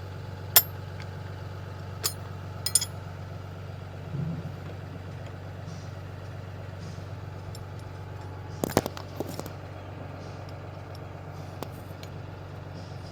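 An engine idling with a steady low hum, under a few sharp metallic clinks of hand tools on the brake chamber's mounting nuts, the loudest cluster about two-thirds of the way through.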